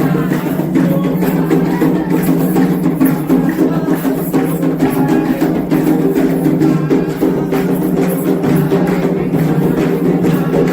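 Candomblé ritual music: hand drums playing a dense, steady percussion rhythm.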